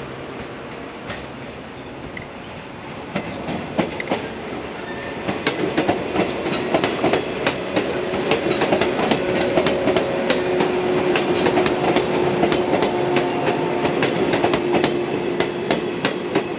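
A yellow JR West 115-series electric train passes close by, its wheels clacking over the rail joints. The clacks start about three seconds in and come thick and loud as the cars run past, over a steady hum.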